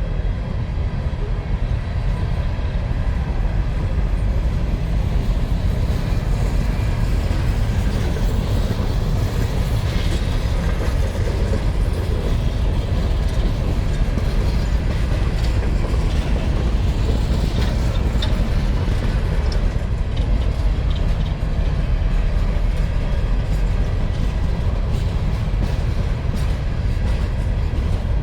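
A freight train of empty mine cars rolling past: a steady, heavy rumble of wheels on rail. A few sharper clanks and squeals come through partway along.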